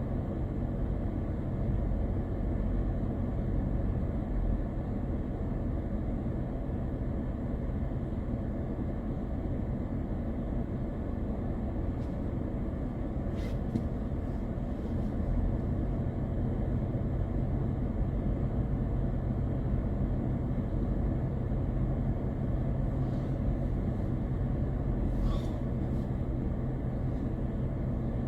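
Steady drone of a car driving, road and engine noise mostly low in pitch, with a couple of faint ticks.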